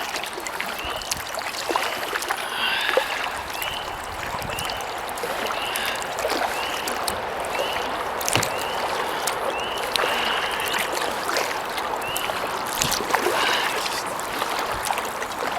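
Kayak paddling: water splashing and trickling off the paddle blades with each stroke, with a few light knocks. A series of short, high, rising chirps repeats in the background through the first two-thirds.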